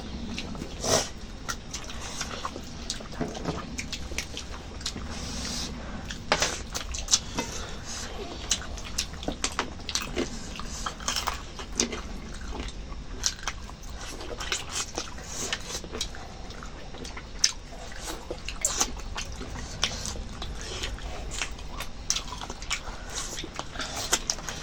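Close-up eating sounds: wet chewing, lip smacks and many small clicks, as rice and chicken curry are eaten.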